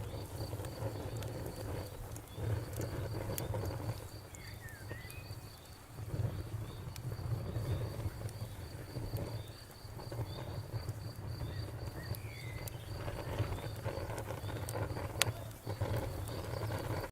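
Campfire crackling, with scattered sharp pops over a low, uneven rumble of flame. Crickets chirp in a fast, even rhythm behind it. The sound cuts out for a moment at the very end.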